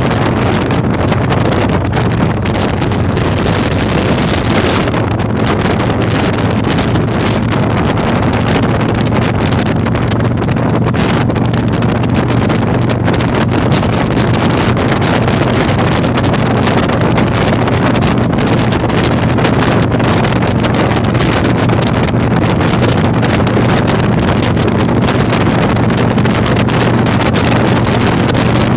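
Heavy wind buffeting the microphone while riding a Yamaha Virago 1100, over the steady drone of its V-twin engine at cruising speed.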